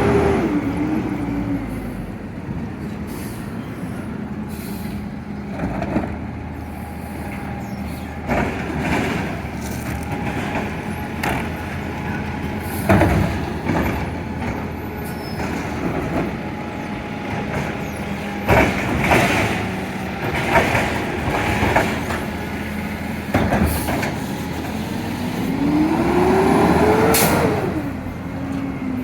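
Garbage truck's engine running steadily, with repeated sharp bangs and clanks. The engine revs up and back down near the end, and its pitch is also falling at the start.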